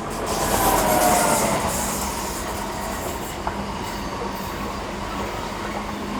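Passenger train passing close by on the line, swelling in to its loudest about a second in and then running on steadily. There is a heavy rumble and hiss of wheels on rail, a thin high whine over it, and one sharp click partway through.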